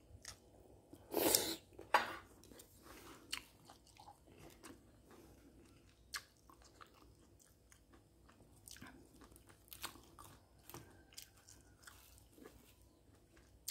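A person chewing a mouthful of rice and boiled mustard greens close to the microphone. There are two sharper, louder noises about a second and two seconds in, and fainter clicks scattered through.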